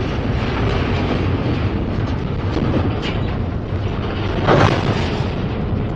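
Freight train's double-stack well cars rolling past close by: a steady rumble of wheels on rail with occasional faint clicks, and a brief louder burst about four and a half seconds in.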